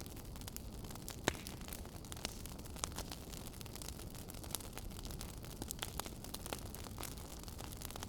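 Wood fire crackling in a fireplace, with scattered sharp pops over a steady low hiss; the loudest pop comes about a second in.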